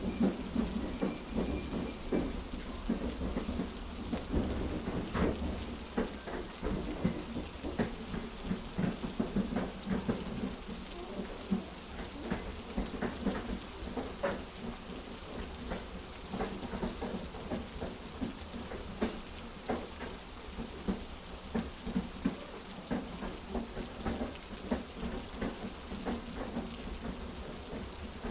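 Heavy rain falling steadily, with many irregular drop crackles over a constant low rumble.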